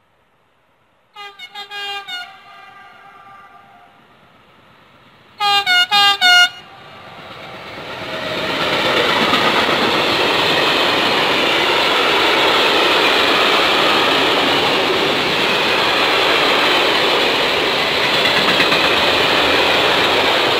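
Freight train locomotive horn sounding a run of short toots about a second in, then four louder short blasts around five seconds in, as the train approaches. From about seven seconds the noise of the train rises, and from about nine seconds its loaded grain hopper wagons roll past close by with a steady loud running noise of wheels on rails.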